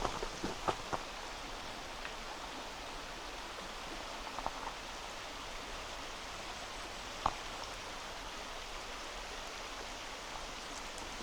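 Steady rush of a flowing river. A few faint footsteps on packed snow die away in the first second, and there are single faint clicks about four and a half and seven seconds in.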